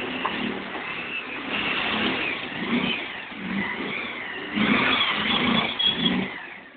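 Bajaj Pulsar motorcycle's single-cylinder engine revving in repeated surges as the bike is spun in a tight circle on the spot. It gets louder over the last couple of seconds.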